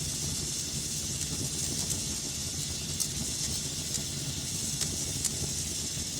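Wood fire burning in a fireplace: a steady hiss and low rumble with a few sharp crackles.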